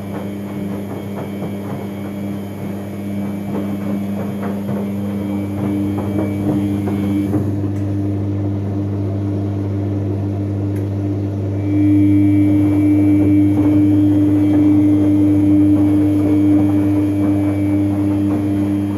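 New Samsung washing machine running with a loud, steady droning hum, a noise the owner calls horrible. It grows louder about twelve seconds in.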